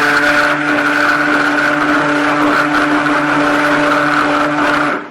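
Handheld stick blender running steadily at full speed, blending soap batter, then switched off abruptly about five seconds in.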